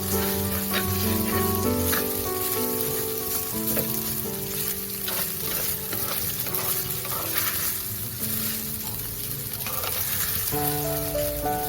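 Rice frying in oil in a pan, sizzling, with a spatula stirring and scraping through it at intervals. Soft background music with held notes plays underneath.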